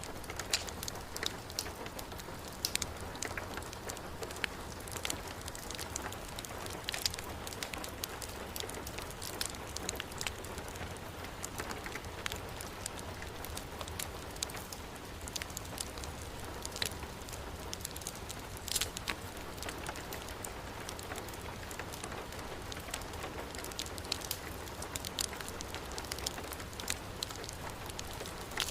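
Heavy rain falling steadily, mixed with a fireplace crackling, with irregular sharp pops and snaps scattered throughout.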